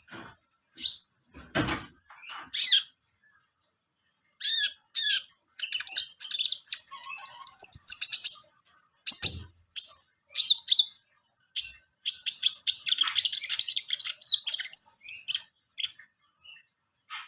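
A caged konin (kolibri ninja, a small sunbird) chirping and twittering in quick, high bursts, busiest through the middle, with two dull knocks, one about a second and a half in and one near nine seconds.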